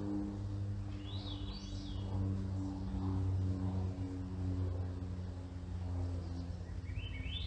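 Steady low drone of an airplane flying overhead. A small bird sings two short phrases of chirps over it, about a second in and again near the end.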